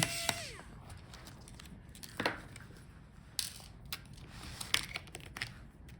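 Light handling of small laptop parts: a few scattered sharp clicks and soft rustles as a cover over the RAM slots is lifted off.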